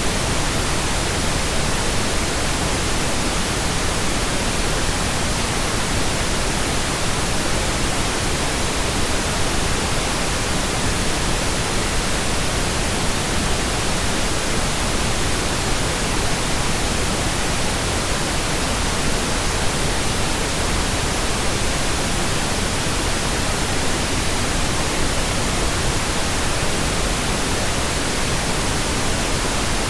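Steady, unchanging pink noise, a computer-generated hiss spread evenly from the bass to the highest treble.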